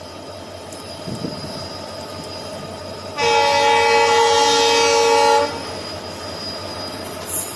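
Locomotive horn sounding one long steady blast of about two seconds, a chord of several tones, over the low rumble of a train. Near the end, rapid wheel clatter begins.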